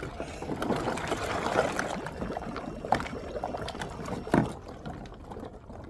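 Water sloshing and splashing as a person lowers himself into a cold plunge tub, with two sharp knocks or splashes, one near the middle and one later.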